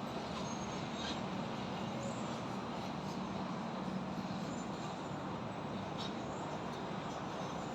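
Steady urban ambience of highway traffic and a high-rise construction site: an even rush of distant traffic with a low hum, and a few faint knocks from the site.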